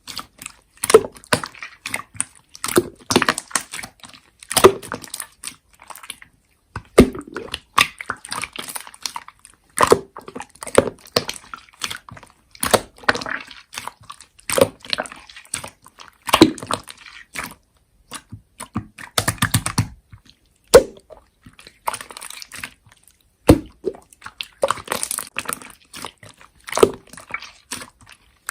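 Hands squishing, stretching and poking slime, making irregular sticky pops, clicks and crackles.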